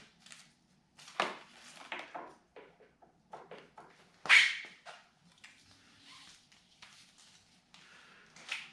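Irregular rustling, clicks and knocks of motorcycle tie-down straps being handled and set, with one loud sharp sound about four seconds in.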